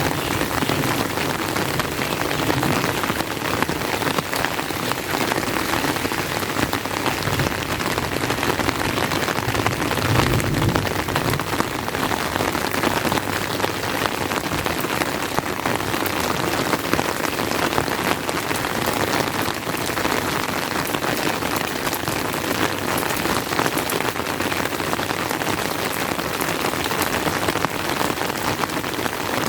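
Steady rain, a dense, even patter of drops. A low rumble of thunder dies away in the first second, and a brief low rumble comes again about ten seconds in.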